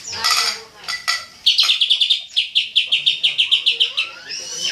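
Cucak ijo (green leafbird) singing: a few call notes, then a fast rapid-fire run of about eight sharp, high notes a second lasting roughly two and a half seconds, the burst song that keepers call 'tembakan'.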